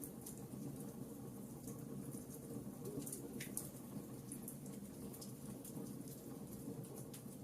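Fire burning in a fireplace, crackling: a steady low rumble with scattered sharp crackles and pops throughout, one fuller pop about three and a half seconds in.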